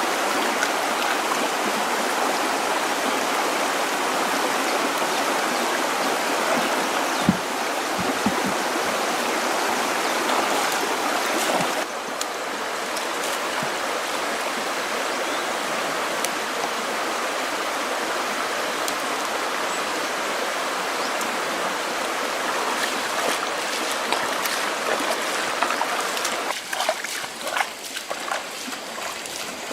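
Stream water running steadily. A few soft knocks come about a quarter of the way in, the sound drops a little just under halfway, and near the end it turns more uneven, with splashing and trickling.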